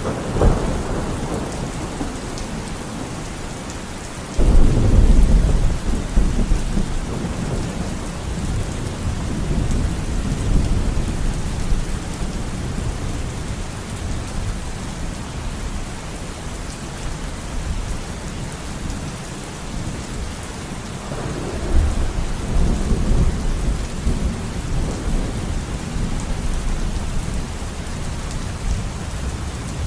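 Steady rain falling, with thunder: a sudden loud clap about four seconds in that rolls on for several seconds, and a second rumble later on.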